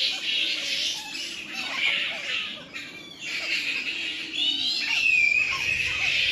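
A roosting colony of fruit bats (flying foxes) calling loudly, many shrill squawks and chatters overlapping into a continuous din.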